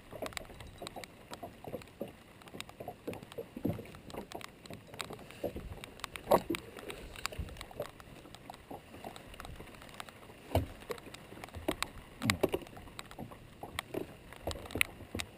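Scattered small knocks and taps from handling gear in a fishing boat, with a few louder thumps about six, ten and twelve seconds in, over a faint background of wind and water.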